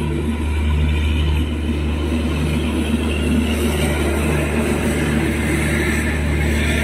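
Passenger train rolling slowly into a station, heard from inside the coach: a steady low rumble with a hum that pulses a little more than once a second.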